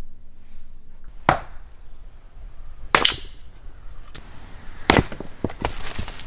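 Firewood being chopped with an axe: three hard, sharp strikes into wood about two seconds apart, with lighter knocks and clatter after the third.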